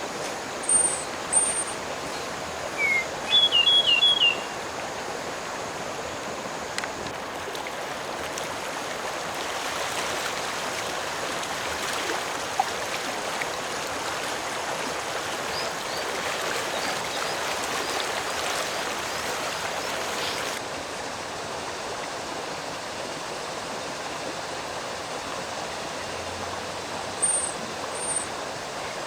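Steady rushing of a stream, with birds calling over it: a few short, very high chirps near the start and again near the end, and a quick run of four or five descending whistled notes about three seconds in.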